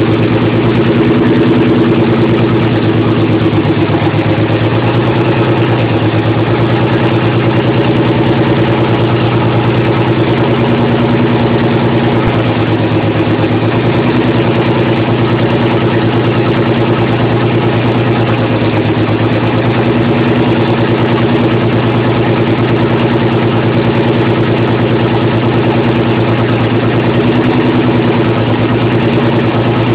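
Nissan 300ZX V6 idling steadily while misfiring, running on only four or five of its six cylinders because of bad fuel injectors and old injector clips.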